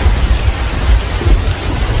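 Heavy rain falling steadily, with a deep rumble of thunder rolling underneath.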